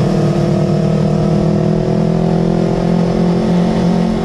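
Yamaha R25 parallel-twin engine breathing through a Villan Pro 2 aftermarket exhaust, held at steady raised revs with an even, constant pitch.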